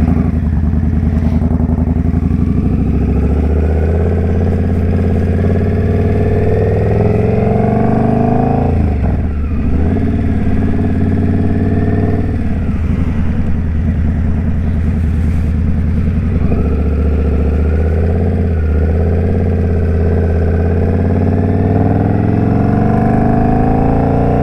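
Indian Scout Bobber's V-twin engine under way. The pitch climbs, drops sharply twice around the middle as the rider changes gear, then climbs again near the end.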